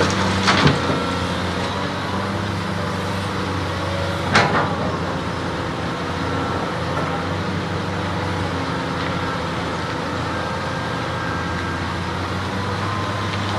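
Cat 330D excavator's C9 diesel engine running steadily, with a sharp knock just after the start and a louder one about four seconds in.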